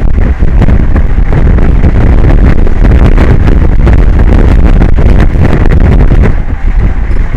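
Strong wind buffeting the microphone: a loud, constant low rumble with irregular gusts and no steady pitch.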